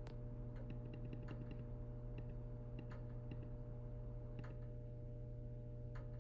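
Scattered light clicks, irregular, like the buttons of a thermostat being pressed to reset it, over a steady low hum.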